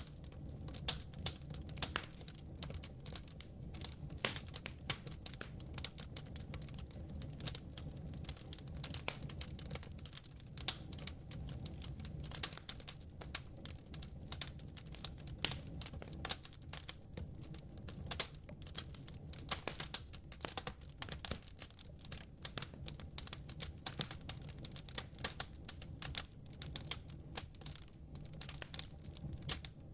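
Wood fire in a fireplace crackling, with many irregular sharp snaps and pops over a steady low rumble.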